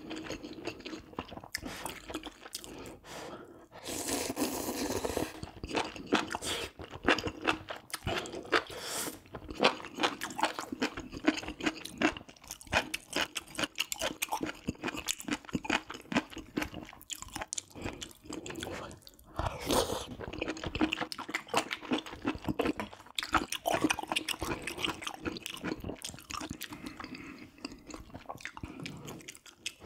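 Close-miked chewing of a mouthful of spicy braised pork galbi-jjim, a dense, irregular run of wet chews. There are two brief louder, noisier stretches, about four seconds in and about twenty seconds in.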